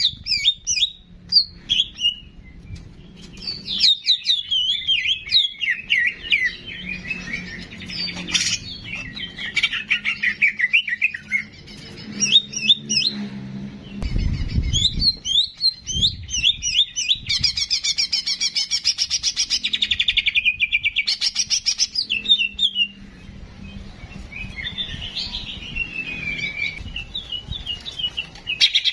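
Songbirds singing a continuous stream of quick chirps and whistled phrases, including a fast trill about two-thirds of the way in. This is a cucak jenggot (grey-cheeked bulbul) masteran, a song recording used to train other songbirds. A low hum sits under the first half.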